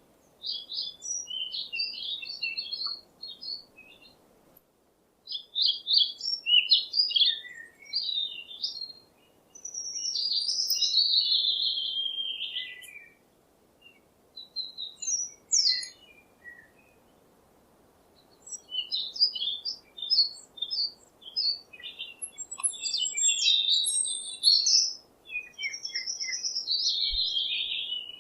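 Songbird singing: phrases of quick high chirps and sliding whistled notes, with short pauses between them, over a faint steady hiss.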